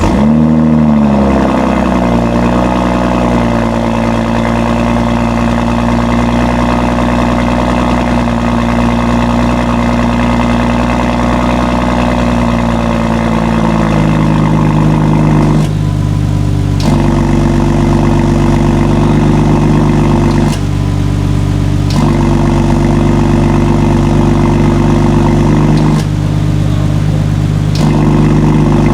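BMW 540i's B58 turbocharged inline-six starting through an aftermarket catback exhaust: the engine fires and flares up, then settles into a steady fast idle. About 14 s in the idle drops to a lower, deeper note, and the sharper upper part of the tone fades for a second or two a few times.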